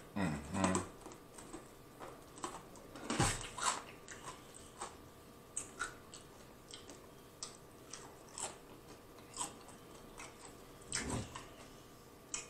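Biting into and chewing crispy fried chicken wings: scattered crisp crunches and wet chewing, with louder bites about three seconds in and again near the end.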